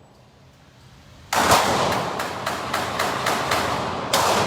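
Rapid string of handgun shots at a shooting range, about ten in three seconds, starting a little over a second in, each shot followed by a short echo.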